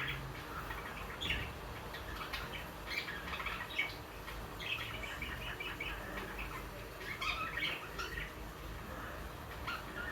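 A courting pair of budgerigars chirping and warbling in short, scattered clusters of quick high chirps.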